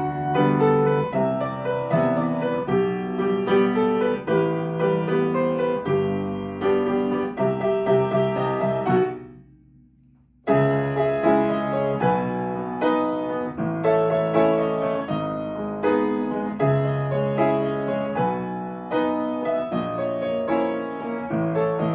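Soft piano music playing: a melody over low chords that fades out about nine seconds in, pauses for about a second, then starts again.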